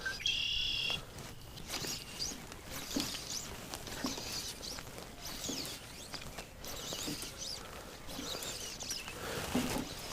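Birds chirping and calling, with short high notes rising and falling again and again, and one longer held high call about a second in. A few light taps and a low rush of wind sit underneath.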